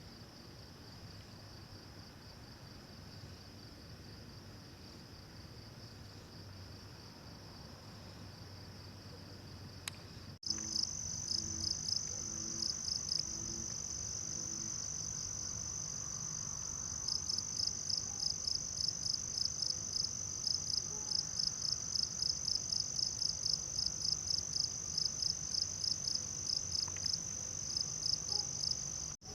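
Night insects chorusing: a steady high-pitched trill. About ten seconds in the sound jumps louder, and a second insect chirps in quick pulses, about four a second, over the steady trill.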